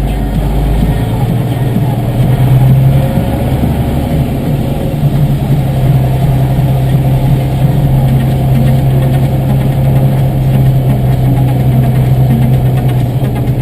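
Diesel tractor engine running steadily under load, its steady drone stepping up a little about a second in and again around five seconds in as the revs rise, then holding.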